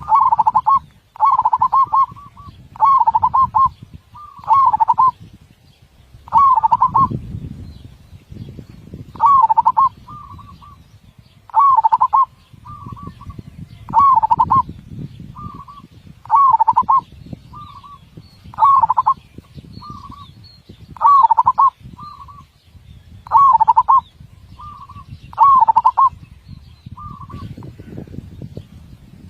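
Zebra dove (perkutut) cooing: loud, rolling coo phrases repeated every second or two. From about ten seconds in, shorter, fainter notes come between them, over a low background rumble.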